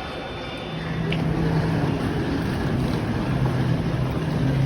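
Steady rumble and hiss of a sleeper train running, heard from on board, with a low steady hum that comes in about a second in as the noise grows louder.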